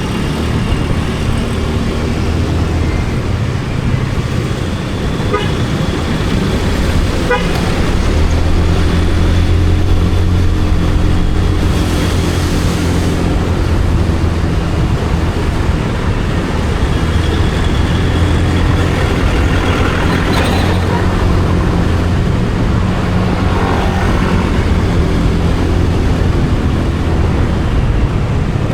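Motorcycle engine running steadily while riding in road traffic, with a vehicle horn tooting.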